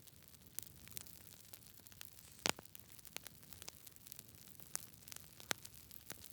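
Wood fire burning in a fireplace, crackling with irregular sharp pops over a soft steady hiss; the loudest pop comes about two and a half seconds in.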